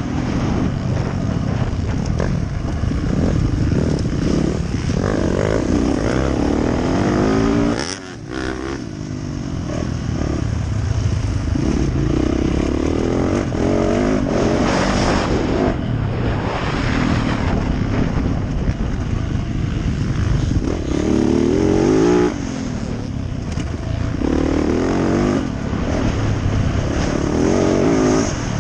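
Yamaha YZ450F single-cylinder four-stroke motocross bike engine revving up and down hard through a track lap. The throttle is chopped and the sound drops away briefly about eight seconds in.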